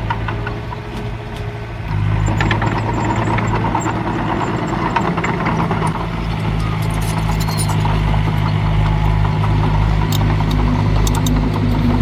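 Heavy diesel engine of earthmoving machinery running steadily, growing louder about two seconds in as it takes load, with scattered metallic clanks and rattles.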